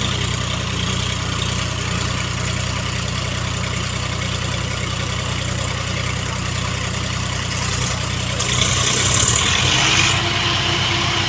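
Tractor diesel engine running steadily at idle; about eight seconds in, a louder hiss joins it for a couple of seconds. Onlookers say a belt has broken and the engine won't shut off.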